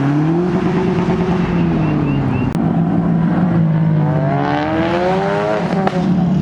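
Sports car engines revving as cars pull away, the engine pitch rising and falling twice.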